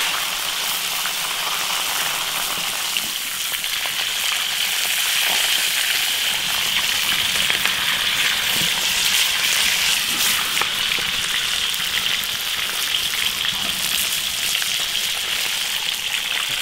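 A split fish head frying in hot oil in an iron wok: a steady sizzle with scattered crackles.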